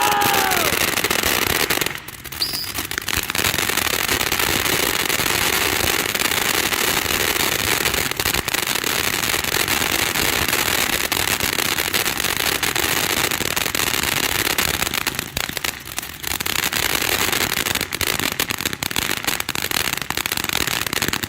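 Santan Fireworks Hawker Hurricane 200-gram fountain firework burning: a continuous dense crackling spray, with brief lulls about two seconds in and again near sixteen seconds, and a short whistle just after the first lull. The crackle thins to scattered pops at the very end as the fountain burns out.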